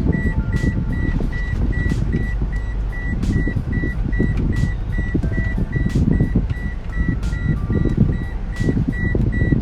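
Vehicle on the move with a steady low rumble, and a short high electronic beep repeating evenly about three times a second.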